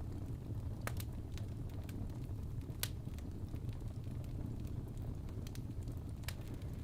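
Wood logs burning in a fireplace: a steady low rumble of the flames with scattered sharp crackles and pops, the loudest about a second in, near three seconds in, and near the end.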